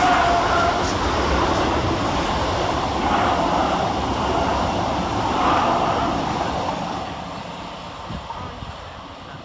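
Gatwick Express Class 387 electric multiple units passing fast through a station, a loud steady rush of train noise that fades away over the last couple of seconds as the train recedes.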